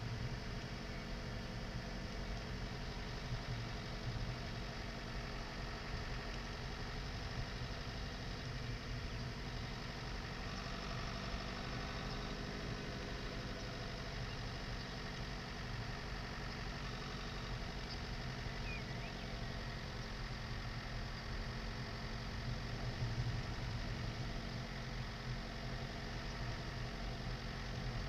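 Dacia Duster's 1.5 dCi four-cylinder diesel engine running steadily at low revs as the car moves slowly along a grass track.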